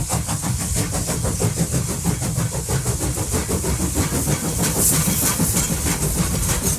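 Train running past close by: a steady, loud rumble and rattle of wheels on the rails with a high hiss.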